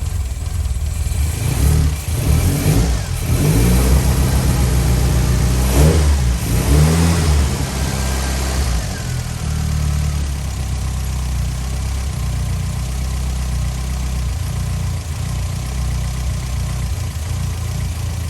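Classic Mini's A-series four-cylinder engine revved several times in the first half, then settling to a steady idle. The owner reckons it is probably running a bit rich.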